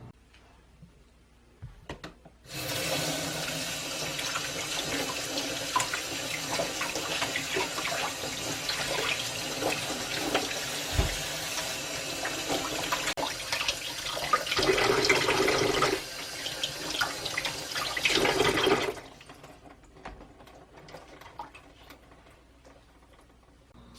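Running water: a steady rush that cuts in abruptly a couple of seconds in, swells louder twice later on, and cuts off abruptly about three quarters of the way through.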